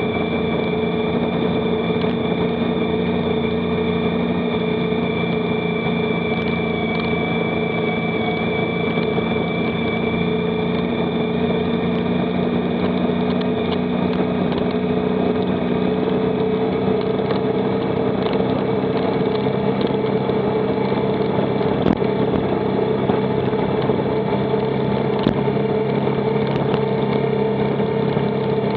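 Motorcycle engine running at a steady, even speed while being ridden, with a couple of brief knocks near the end.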